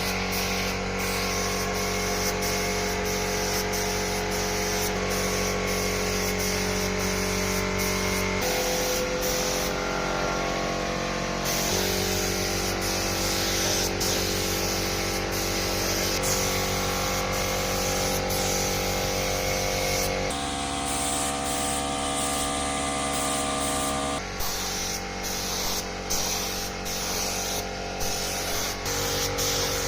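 Paint spray gun hissing steadily, with a steady hum underneath; the sound shifts abruptly a few times.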